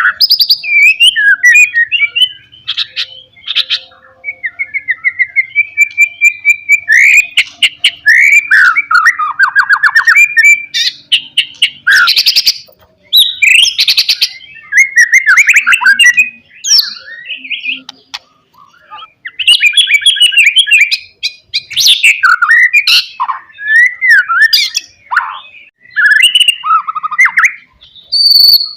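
White-rumped shama (murai batu) singing a long, varied song of clear gliding whistles, fast rattling trills and harsh chattering notes, with only brief pauses.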